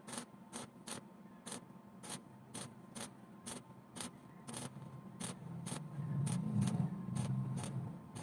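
Sharp taps or clicks at an even pace of about two a second, over a low rumble that grows louder about six seconds in.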